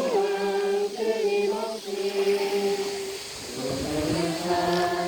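A small group of voices singing a hymn together without accompaniment, in long held notes, with a short break between phrases about three seconds in.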